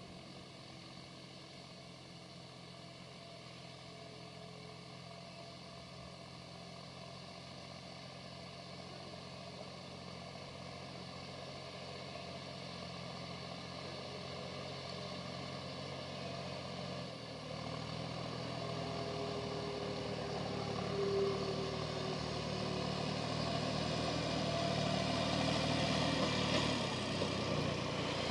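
Massey Ferguson 266 G tractor's diesel engine running, growing steadily louder as it draws nearer, its note shifting about two thirds of the way through.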